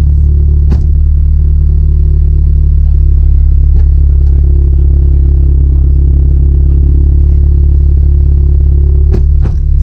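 Toyota 2ZZ-GE 1.8-litre four-cylinder engine droning steadily under way, heard loud from inside the Corolla's cabin, with a few brief clicks: one about a second in, one near the middle, two near the end.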